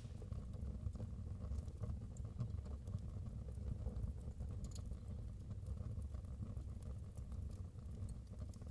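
Wood fire burning in a fireplace: a steady low rumble of flames with sparse small crackles and pops.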